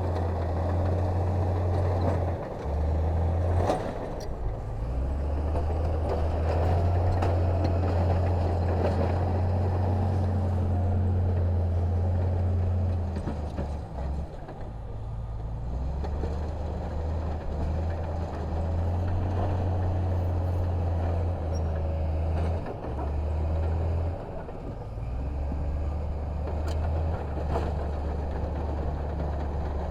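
Heavy diesel engine of earthmoving machinery running under changing load, its low drone stepping up and down in pitch several times and easing off briefly about halfway through, with occasional faint clanks.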